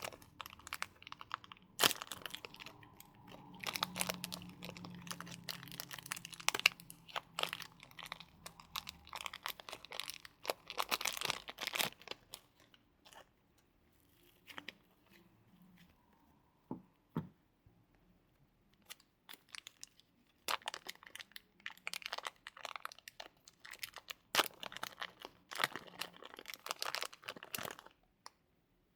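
Store-bought slime with clay mixed into it being pressed and squeezed by hand, giving dense crackling and popping clicks. It goes sparse and quieter for several seconds in the middle, picks up again, and stops just before the end.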